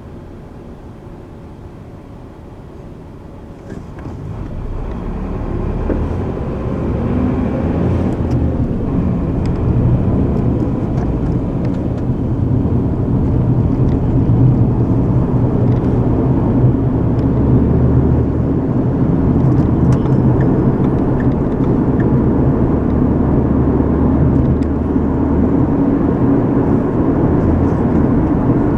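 A car driving, heard from inside the cabin: the engine and road noise is low at first, grows louder from about four seconds in as the car picks up speed, then holds as a steady low rumble.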